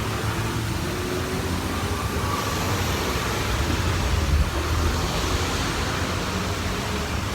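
Steady outdoor background noise with a low rumble, with no clear single event.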